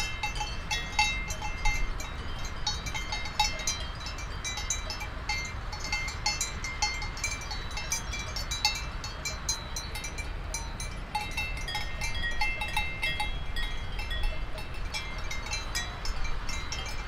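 Cowbells on grazing cattle clanking irregularly, several bells ringing at once, over a steady background rumble.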